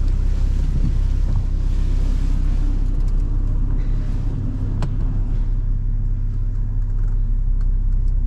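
Car idling with a steady low rumble, a light hiss over it in the first few seconds and a short sharp click about five seconds in.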